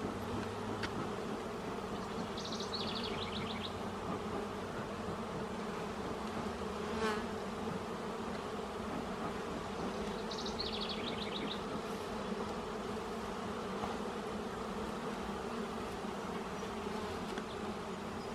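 A colony of honeybees in an open hive, buzzing in a steady hum. A short high chirping trill sounds twice over the buzz.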